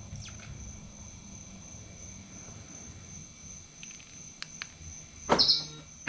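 Steady high trill of crickets, with two faint clicks and then a short, loud clunk about five seconds in from the Rivian R1T's door and power door-handle mechanism closing.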